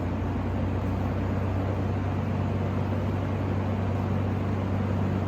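Superlectric 2067S box fan with a metal blade running steadily on medium speed: an even rush of air over a low motor hum.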